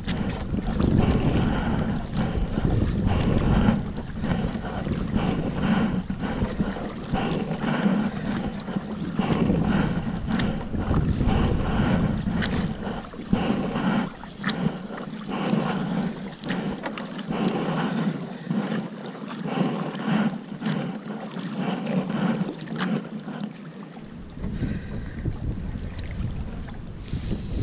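Kayak paddle strokes in a steady rhythm, with water splashing and dripping off the blades. Wind rumbles on the microphone, heaviest in the first few seconds and again near the end.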